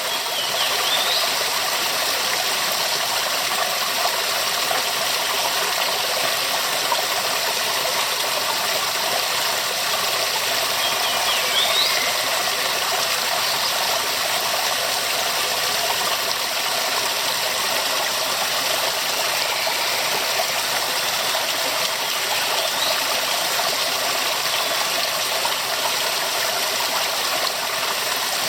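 Waterfall rushing steadily, a dense even roar of falling water. A few faint high chirps rise and fall over it about a second in, around the middle and near the end.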